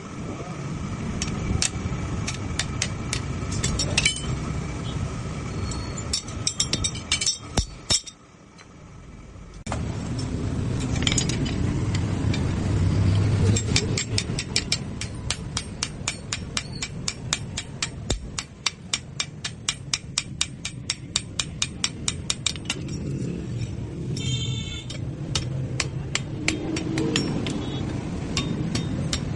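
Hammer blows on hot steel at an anvil, forging a blade: scattered strikes at first, then a long fast run of even blows lasting several seconds, over a steady low rumble. The sound drops away for a moment about a third of the way in.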